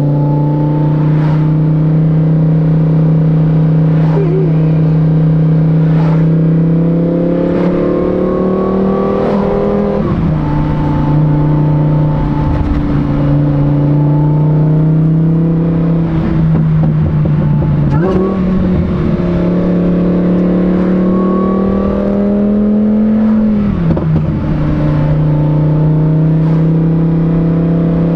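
Lamborghini Huracán EVO's supercharged V10 running through a titanium race exhaust while driving, the engine note climbing slowly and dropping sharply with upshifts about ten, eighteen and twenty-three seconds in.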